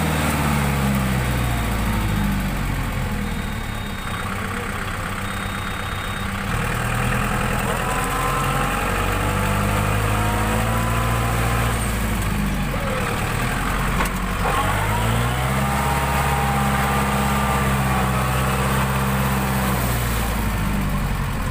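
A tractor's diesel engine running, its pitch dropping and rising a few times as the revs change, then holding steady.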